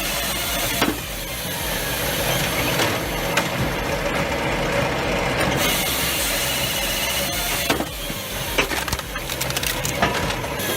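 Logs being handled by heavy forestry machinery: wood cracking and knocking several times over the steady noise of the machine at work.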